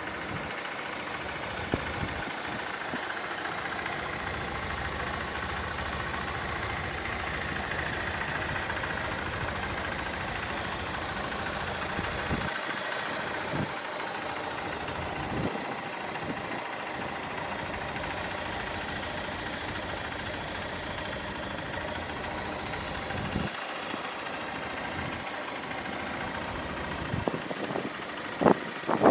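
Honda CBF125F's single-cylinder four-stroke engine idling steadily, with a few knocks near the end.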